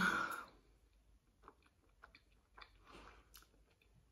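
A person chewing food, with a few faint short clicks scattered through; a brief hum of voice at the very start.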